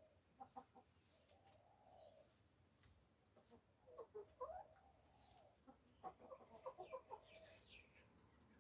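Backyard hens clucking softly, short runs of clucks coming in clusters about four seconds in and again around six to seven seconds, with faint ticks between.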